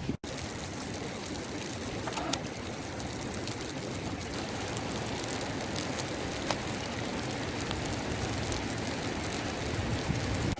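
Steady rushing noise of strong wind blowing over the microphone, with a few faint sharp cracks.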